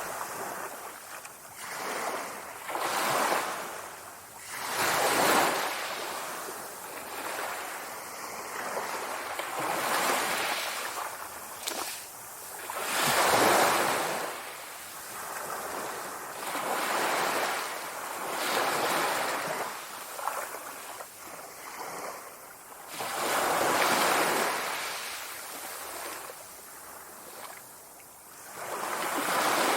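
Sea waves breaking and washing in, the sound of the surf rising and falling in a swell every few seconds.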